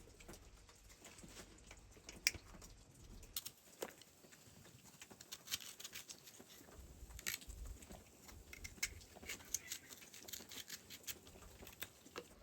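Scattered light clicks and taps at an irregular pace, a few sharper ones standing out.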